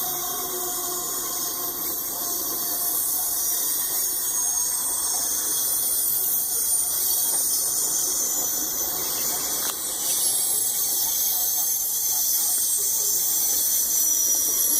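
Steel wheels of a loaded coal train squealing against the rails: a continuous high-pitched squeal with several ringing tones over the rumble and hiss of the rolling cars.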